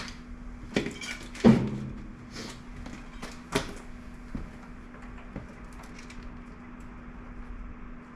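Several sharp knocks and clanks of hand tools and metal parts being handled, the loudest about one and a half seconds in, over a steady low hum.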